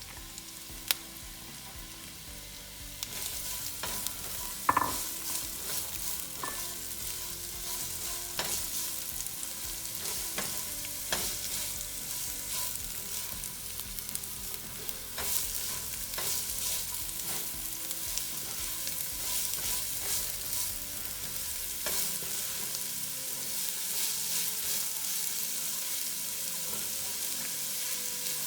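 Chopped onions frying in hot oil in a pan, sizzling steadily, with a spatula scraping and knocking against the pan every few seconds as they are stirred. The sizzle grows louder about three seconds in.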